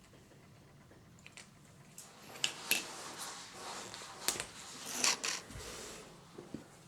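Quiet close-up handling noises: a few sharp clicks and soft scraping rustles, starting about two seconds in.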